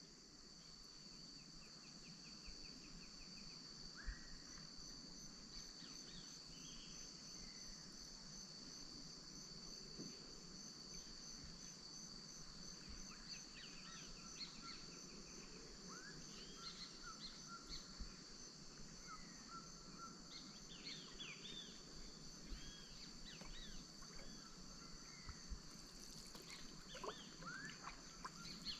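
Amazon wetland insect chorus: a steady high-pitched drone with a pulsing trill, overlaid by scattered short bird chirps and whistles that grow busier in the second half.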